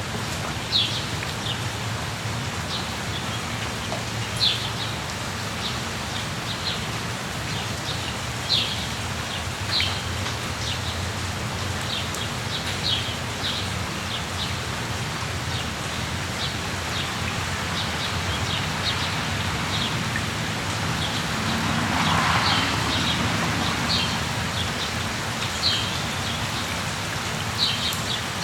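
Steady rain falling in a rainforest, with short high chirps from an animal caller repeating at irregular intervals of a second or more. The rain swells briefly louder about three-quarters of the way through.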